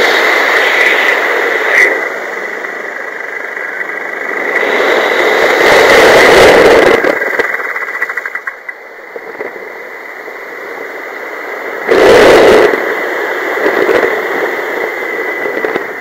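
Wind rushing over the microphone in flight, swelling louder and softer in gusts, with a steady thin high whine underneath.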